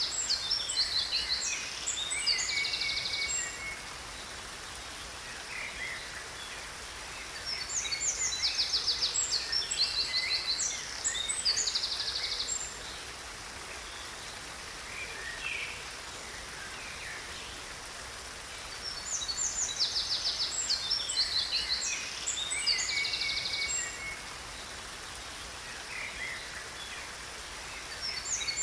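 Songbird singing in bursts of rapid, high chirps and trills, one burst about every ten seconds with a few softer notes between. Under the song runs a steady rush of falling water.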